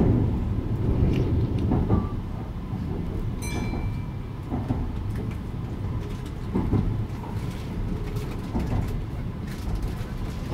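Kintetsu 80000 series 'Hinotori' electric train running, heard from inside: a steady low rumble with scattered clicks of the wheels over the rails, and a brief high tone about three and a half seconds in.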